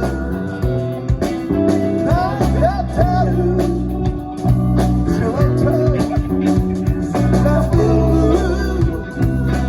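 Live rock band playing a song: electric guitar, bass and drums with a steady beat, under a bending melodic lead line.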